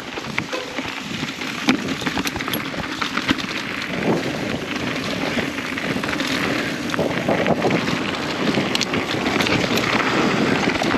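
Mountain bike riding down a dirt trail: steady tyre and trail noise with frequent short clattering knocks from the bike, under wind buffeting the camera microphone.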